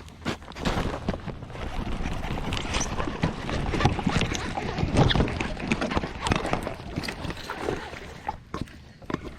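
Handling noise aboard a fishing kayak: a dense run of close knocks, clicks and rustling against the boat, dying down shortly before the end.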